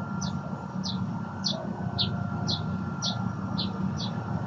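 A bird repeating a short, high, falling chirp about twice a second, over a steady low rumble.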